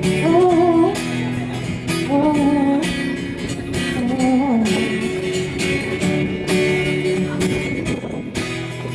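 Acoustic guitar strummed steadily, with a woman's voice singing three short drawn-out phrases in the first half, then the guitar going on alone.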